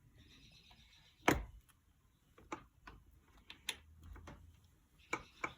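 Scattered light metallic clicks and knocks as a dirt-bike engine's steel shift forks are handled and fitted onto the transmission. The loudest knock comes a little over a second in.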